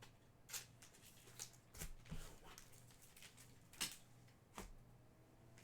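Faint, scattered handling noises: about six short soft taps and rustles in a few seconds over quiet room tone.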